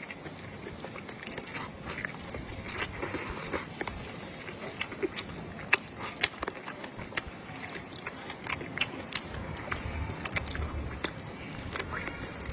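A person eating close to the microphone: irregular chewing clicks and smacks. A low hum comes in near the end.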